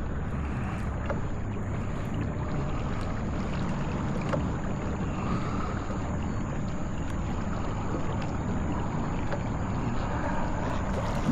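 Steady wind noise on the microphone over water moving around a kayak.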